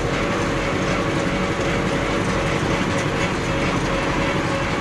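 Diesel tractor engine running steadily under load while hauling a heavy trailer, its fast low pulsing topped by a steady whine.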